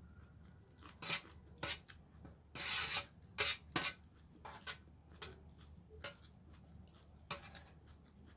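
An eating utensil scraping and clicking against a small basin of vegetable salad in a string of short, sharp strokes. The longest is a scrape of about half a second, a little under three seconds in.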